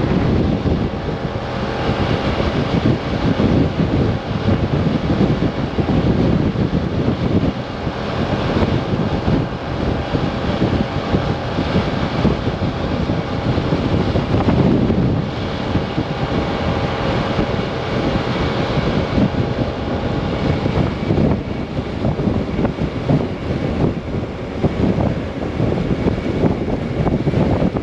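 Strong, gusty wind buffeting the microphone of a moving Kymco AK 550 maxi-scooter, swelling and easing every second or two. The scooter's engine and road noise run faintly underneath.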